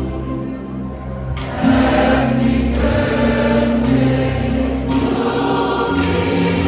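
Samoan church choir singing a hymn in sustained harmony, growing fuller and louder about one and a half seconds in.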